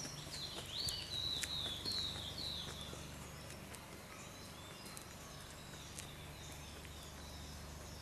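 Birds chirping: a quick run of about five falling notes in the first three seconds, then fainter, scattered chirps.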